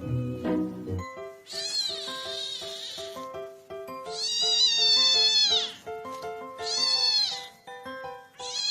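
A cat giving long, drawn-out, high-pitched meows, three of them with a fourth starting at the end. Background music with a light melody plays under them.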